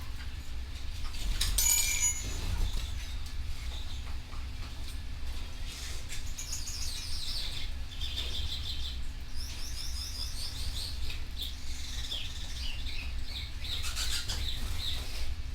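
Canary singing: a short high call near the start, then from about six seconds on, long fast trills of repeated rising and falling notes. A steady low hum runs underneath.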